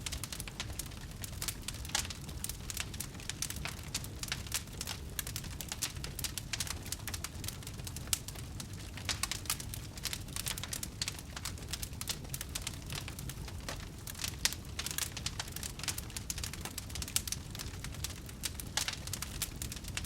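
Campfire burning, a steady low rumble of flames with dense, irregular crackles and pops throughout.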